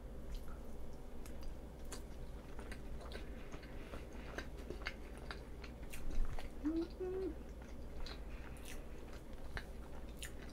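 Close-miked wet chewing with small mouth clicks as soft chocolate roll cake is eaten, with a brief hum near the middle.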